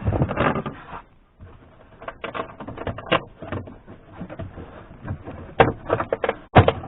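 Irregular clicks, knocks and rustling of hands working plastic car interior trim loose, with a couple of sharper knocks near the end.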